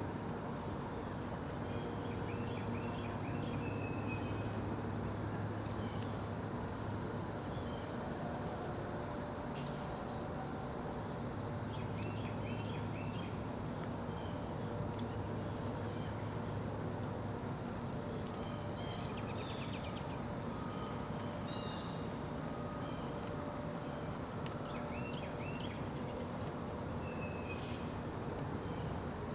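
Blue jay calling in short series of quick repeated notes, four times, with two sharp high chips from a small bird standing out loudest, over a steady low background hum.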